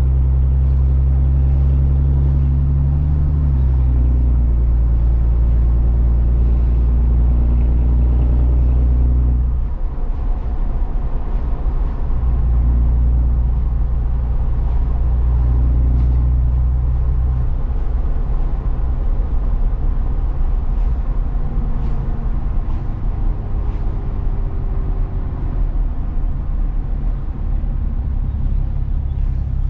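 Truck engine running while driving, with road noise. A steady engine hum drops in pitch about three and a half seconds in, then gives way to a rougher, fluctuating rumble from about ten seconds in.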